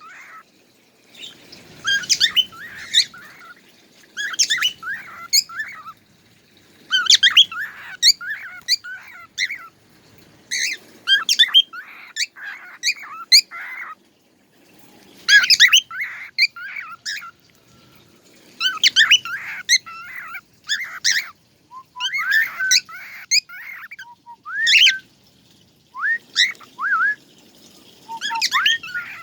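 A songbird singing in repeated bursts of rapid, high chirps and whistled notes, each phrase lasting one to three seconds with short pauses between.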